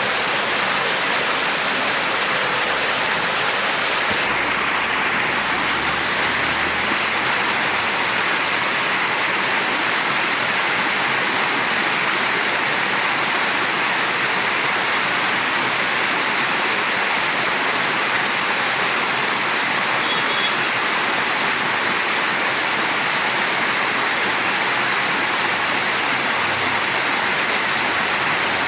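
Mountain stream rushing steadily over rocks, a continuous even rush of water.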